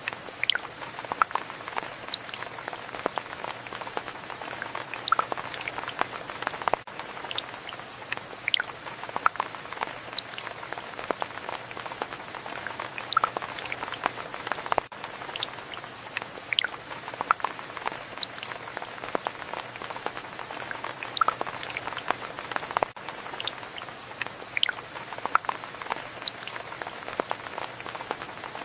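Steady rainfall, with many close individual drops ticking sharply on a surface.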